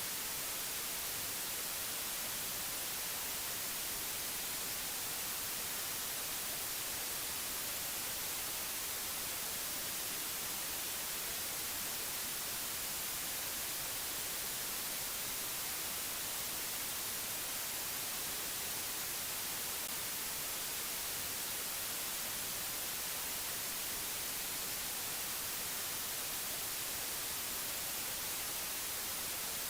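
Steady hiss of white noise, even and unchanging, brightest in the treble.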